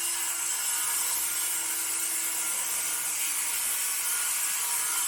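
Handheld circular saw running steadily while cutting through a wooden board.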